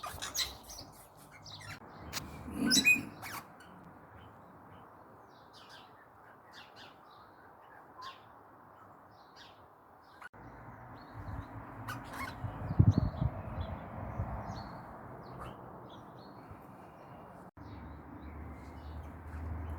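Parrots squawking and chirping in short scattered calls over a steady background hiss, with one loud squawk about three seconds in. A loud low thump comes about thirteen seconds in.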